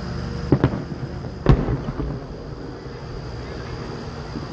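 Fireworks shells bursting: a quick double bang about half a second in, then a louder single bang about a second later, each followed by a short rumbling echo.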